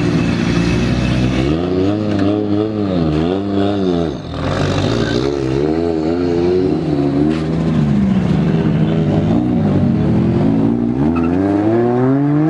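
A car engine being revved, its pitch rising and falling in several blips, then holding steadier and climbing again near the end.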